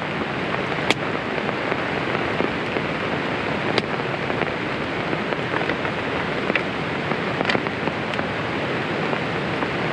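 Heavy rain coming down steadily, with wind, and a few sharp ticks scattered through it.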